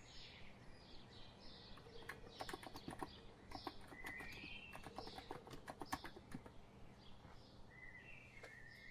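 Birds chirping over and over in short calls, with a few scattered keystrokes from a COX Empress electrostatic capacitive keyboard, bunched around a quick run about two to three seconds in.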